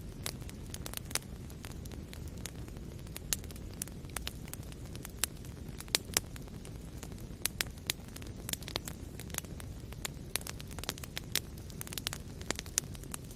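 Wood fire burning in a fireplace: a steady low rumble of the flames with frequent sharp, irregular crackles and pops, a few louder snaps among them.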